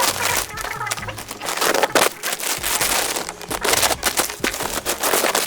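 Delivery package being torn open by hand: dense crackling, crinkling and ripping of plastic and paper wrapping, with many sharp clicks.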